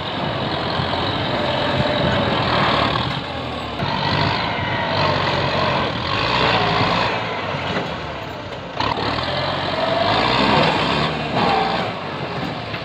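Kubota M8540 tractor's diesel engine working hard, with a wavering whine rising and falling over the engine noise; it eases briefly about two-thirds of the way through, then picks up again.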